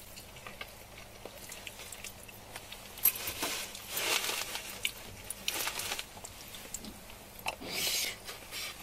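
A person chewing and biting food close to the microphone, with small wet clicks of the mouth and a few louder bursts of noise now and then.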